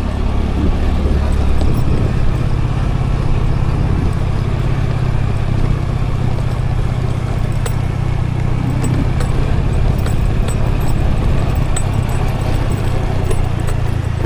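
Scooter riding along with its engine running, mixed with steady road and wind noise as a heavy low rumble; the deepest part of the rumble drops off about two seconds in.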